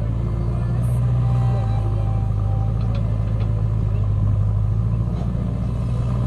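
A heavy vehicle's engine running with a steady low drone.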